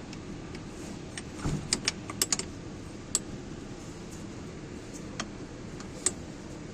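Light metallic clicks and clinks of hand tools on the hose fittings, scattered, with a quick cluster of them about two seconds in, over a steady low hum.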